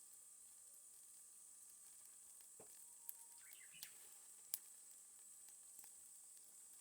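Faint crackling of a charcoal fire: a steady soft hiss with a few sharp pops around the middle.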